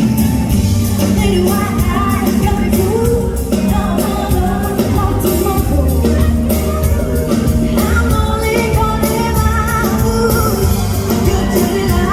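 A live pop band playing while a female singer sings a slow, bending melody over steady bass notes.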